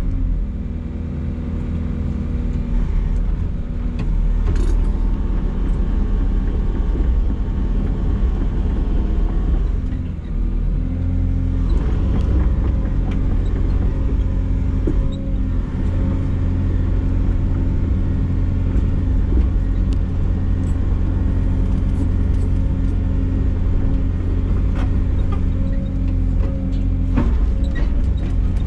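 Yanmar SV100 excavator's 72 hp diesel engine running steadily under work, with occasional sharp knocks and cracks over the engine note.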